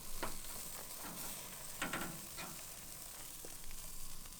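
Bratwursts sizzling on a grill: a steady hiss with a few short pops.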